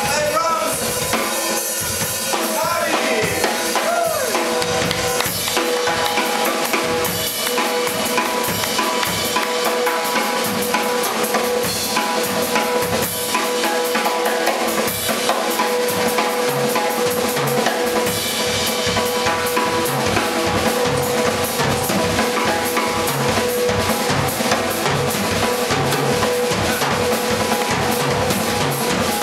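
A band playing with a prominent drum kit: bass drum, snare and rimshots keeping a busy, regular beat under held instrumental notes.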